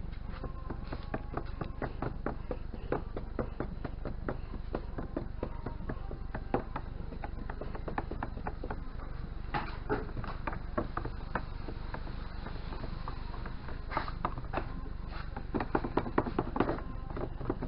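Primer being stirred by hand in a container: many irregular light clicks and taps of the stirrer against the container over a steady low hum, busier about ten seconds in and again near the end.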